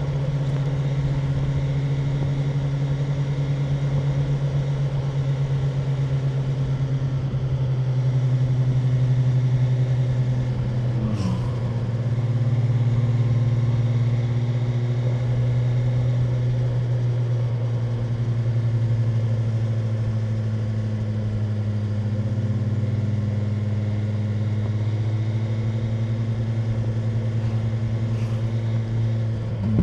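BMW M1000R's inline-four engine running at fairly steady cruising revs, its pitch drifting only slightly, with a short dip in pitch about eleven seconds in.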